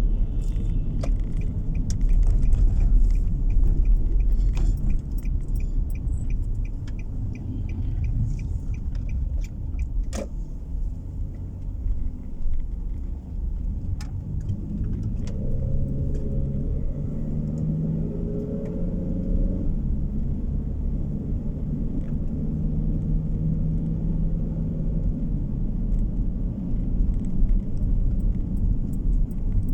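Car tyre and road rumble heard from inside the cabin while driving. A run of light, evenly spaced ticks runs through the first third, and an engine note rises and holds for a few seconds midway.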